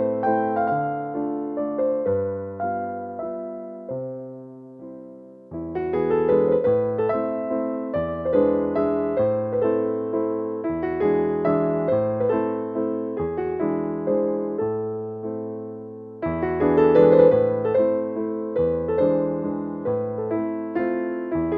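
Background piano music: a gentle melody of separate notes over chords, softening briefly twice before picking up again.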